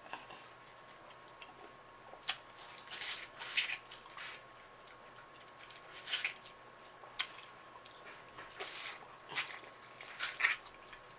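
Close-up eating sounds of a person chewing sauce-coated seafood-boil food: irregular wet squishy smacks and sharp mouth clicks, some in quick little clusters.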